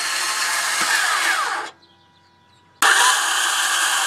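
2004 Toyota Sienna LE's faulty starter motor whirring harshly, released about two seconds in and engaged again about a second later. Between the attempts it falls near silent, as the engine does not catch.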